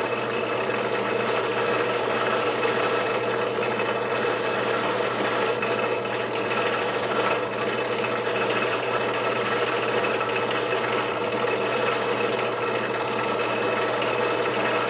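Motor-driven wire brush wheel running steadily with a constant hum, a small crud-clogged carburetor part held against it and scrubbed clean.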